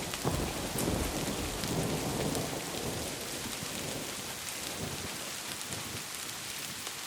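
Steady heavy rain with a rolling rumble of thunder that dies away over the first few seconds, leaving only the rain.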